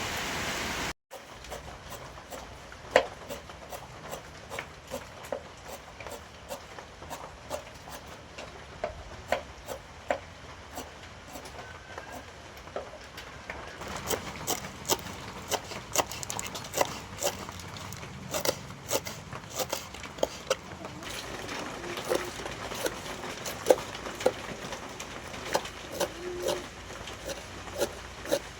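A string of irregular sharp clicks and knocks, a few each second, coming more often from about halfway through, over a faint steady hiss.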